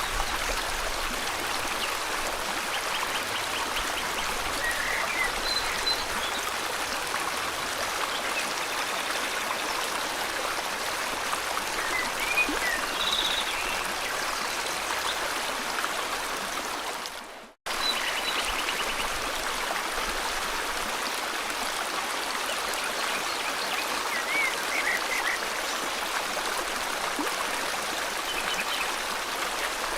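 Steady flowing river water, with scattered short chirps from forest birds over it. About two-thirds of the way through, the sound briefly fades to silence and then cuts straight back in.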